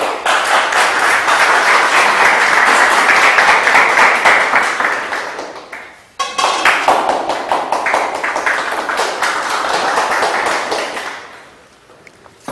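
Audience applauding in two stretches: the first dies away about six seconds in, the second starts suddenly straight after and fades out near the end.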